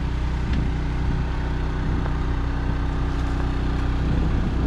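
An engine running steadily at idle, an even low hum with no revving, with a light click about half a second in.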